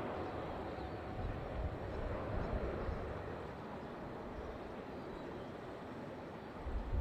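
Steady noise of jet aircraft engines at an airport, with low rumbling bursts about a second in and again just before the end.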